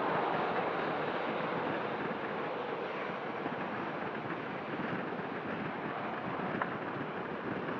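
Jet airliner engine noise, an even rushing sound that slowly fades as the aircraft moves away.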